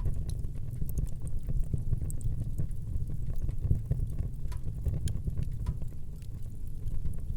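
Wood fire burning with a steady low rumble and frequent small irregular crackles and pops.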